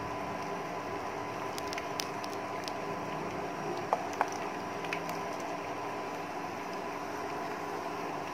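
Battered sliced-onion pakoras deep-frying in oil over low heat, a steady gentle sizzle with scattered small pops. About four seconds in, two sharper clicks as another portion of battered onion goes into the oil.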